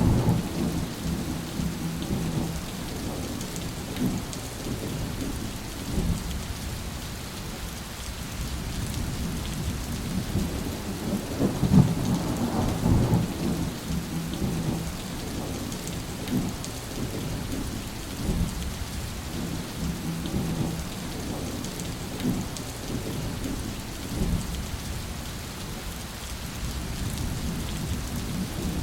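Steady heavy rain with rolling thunder: low rumbles swell and fade throughout, the loudest and longest about twelve seconds in, with a few short low thumps between.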